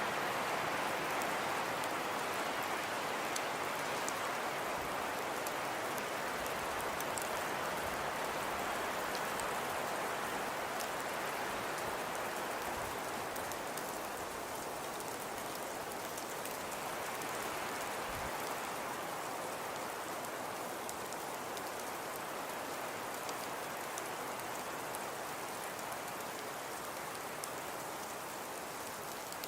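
Fireplace crackling: a soft steady hiss with many small faint pops and ticks, easing slightly in loudness over the stretch.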